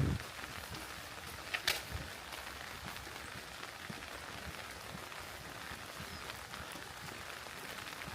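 Rain falling steadily as an even hiss of drops, with two sharp ticks about one and a half seconds in.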